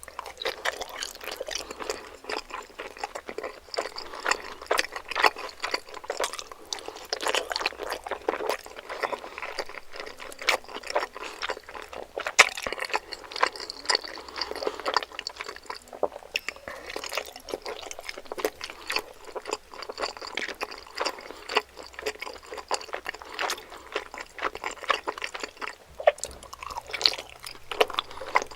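Close-up wet chewing and mouth sounds of someone eating dumplings, a dense, continuous run of small smacks and clicks.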